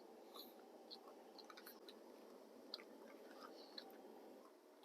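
Near silence with faint chewing: a person eating, with small scattered clicks and crunches of the food.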